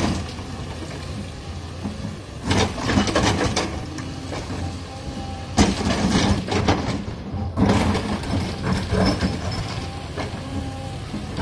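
Caterpillar 320D excavator's diesel engine running steadily under load, with several stretches of loud scraping and clattering as the bucket works into broken rock.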